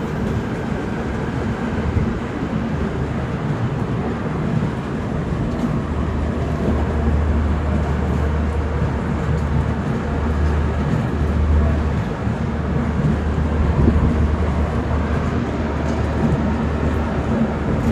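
Train rumbling steadily, a continuous deep noise with no breaks.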